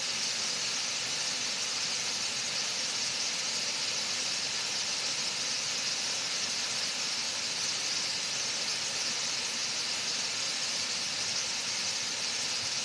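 Waterfall rushing steadily, a constant hiss of falling water with the flow running high.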